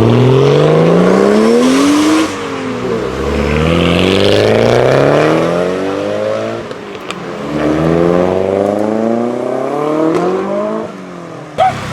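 A modified car accelerating hard away, its engine pitch climbing through three pulls with a sudden drop between each as it shifts up a gear.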